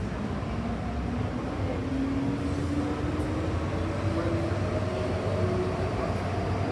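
MTR M-Train electric multiple unit under way, its traction motor whine slowly rising in pitch as the train gathers speed, over a steady rumble of wheels on rail.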